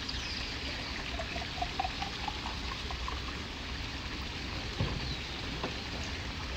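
Water trickling and splashing steadily, as from a garden pond.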